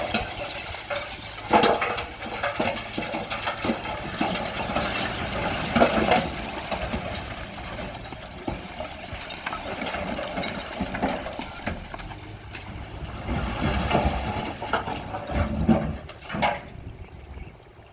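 Bulldozer's diesel engine running, with clanks and knocks of rock and metal, the loudest about one and a half and six seconds in. Near the end the sound drops off sharply.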